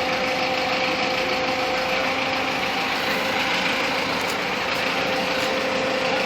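Engine of a crane truck running steadily, with a constant whine over a wide, even noise.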